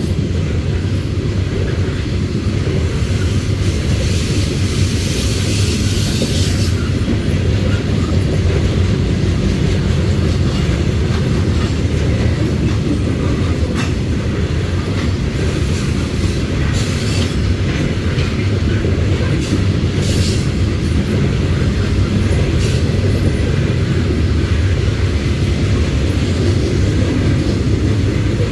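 Freight train of loaded coal gondolas rolling past, a steady heavy rumble with wheel and rail noise. A brief high hiss comes a few seconds in.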